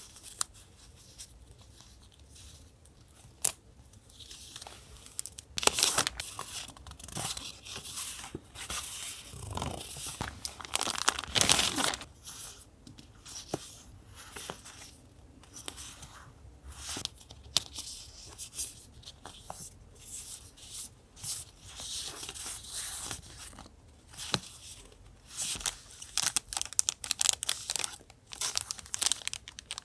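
Paper being handled close up: crinkling, rustling and tearing, with small taps and clicks. The handling is busiest and loudest in a stretch from about six to twelve seconds in.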